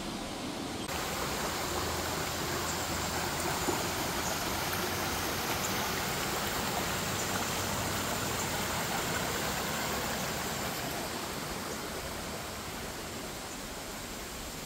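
Steady rush of falling water from a small dam and waterfall, an even hiss with no breaks, easing slightly near the end.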